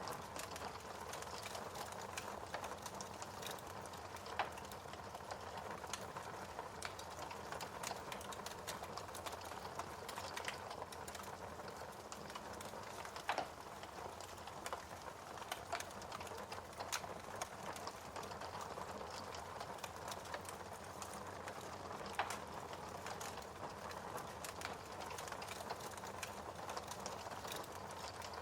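Fireplace fire crackling: a steady soft hiss with many small, irregular pops and snaps, and a few louder pops, the loudest about halfway through.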